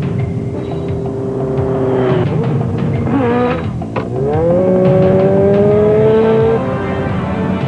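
Car engines at speed in a pursuit, running hard. The engine pitch drops around three seconds in, climbs again as the car accelerates, holds high, then falls back near the end.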